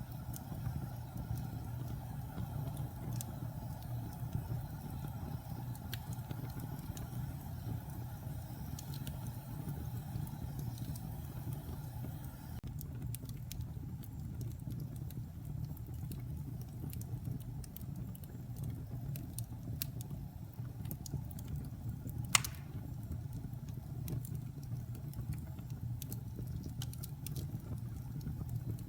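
Wood fire burning in a fireplace: a steady low rumble of flames with scattered crackles from the burning logs, and one sharp, loud pop about three-quarters of the way through.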